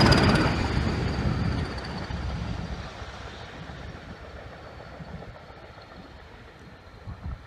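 A train going away over a level crossing, its rumble fading steadily into the distance. A faint high ringing tone fades out with it.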